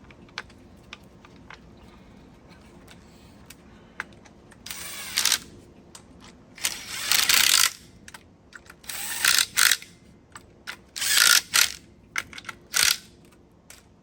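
A ratcheting tool used on a pool pump during motor replacement: five short bursts of ratcheting, each lasting about half a second to a second, with small clicks of metal parts between them.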